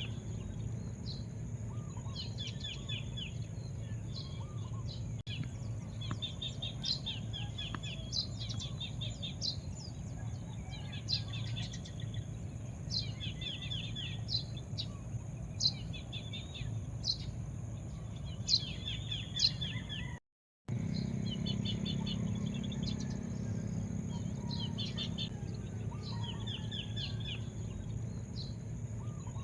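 Several small birds chirping: repeated quick runs of short notes and sharp single high chirps, over a steady low rumble and a thin continuous high buzz. The sound cuts out completely for a moment about two-thirds of the way through.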